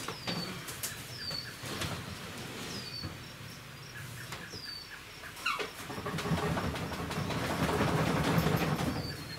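A freestanding pantry cabinet being dragged across the floor, a scraping rumble that grows louder for the last few seconds, after a few knocks. A bird repeats a short, high, falling chirp about once a second throughout.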